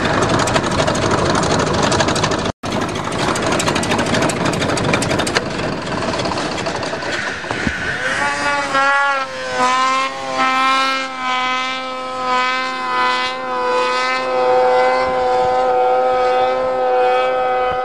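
Vehicle engine running under load with heavy rough noise, cut briefly about two and a half seconds in. From about halfway a steady, slightly wavering engine note takes over.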